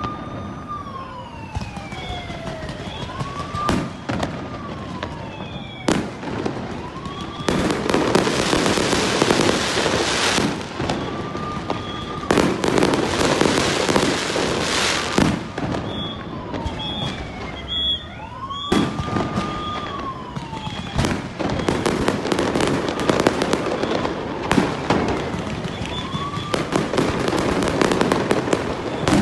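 Aerial fireworks display: sharp bangs of bursting shells, with long stretches of dense crackling a quarter of the way in, around the middle, again at about two-thirds, and near the end. Behind it, a wailing tone rises and falls every few seconds.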